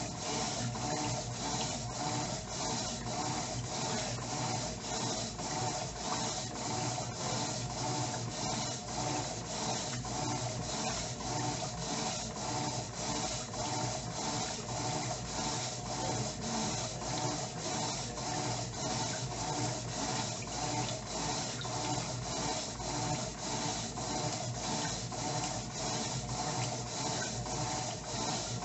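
Electrolux LTE09 top-loading washing machine agitating its load during the wash stage: an even, rhythmic swish and rub of clothes and water, about two strokes a second.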